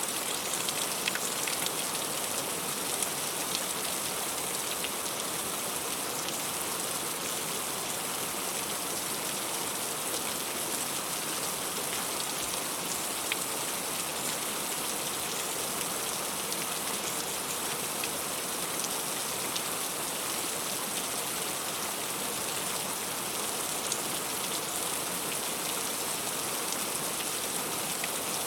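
Heavy rain falling steadily on the leaves of a fruit tree, a constant hiss of rain with scattered sharper drop hits.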